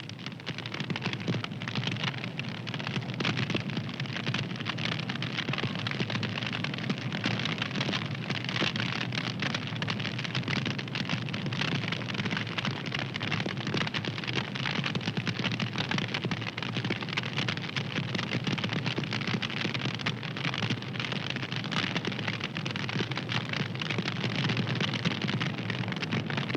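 Fire crackling steadily with a dense run of small pops and snaps over a soft low rush.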